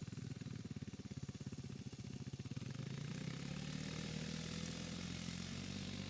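Small single-cylinder off-road bike engines running under way on a dirt track, heard at a distance as a rapid firing chatter. About halfway through it becomes a steadier, slightly louder engine note.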